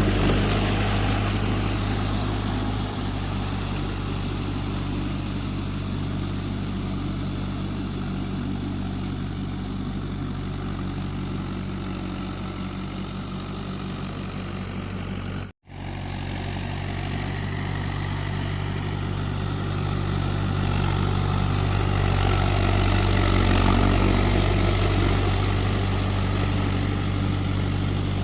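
Mahindra tractor's diesel engine running steadily. It cuts out abruptly for a split second about halfway through, then grows somewhat louder about three-quarters of the way in.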